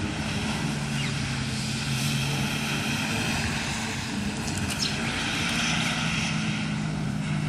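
Distant car engine running as the car drives around a wet skid pan, a steady drone that rises slightly in pitch about two seconds in and then holds.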